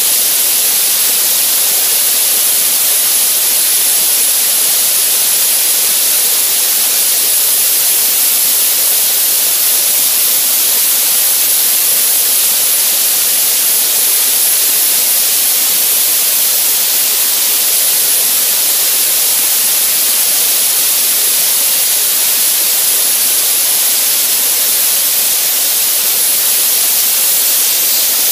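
Soda blaster nozzle spraying baking-soda media on compressed air: a steady, loud hiss with a thin high whistle above it, as it strips bottom paint from a steel hull.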